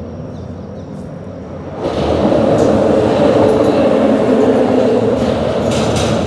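A loud, steady rumble starts abruptly about two seconds in and carries on, with a low hum and faint ticking above it.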